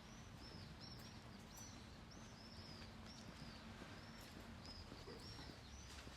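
Small birds chirping, a quick, continuous run of short high arched chirps, faint over a low background hum.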